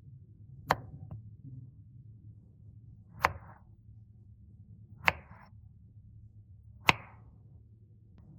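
Four sharp knocks, about two seconds apart, each followed by a brief rustle.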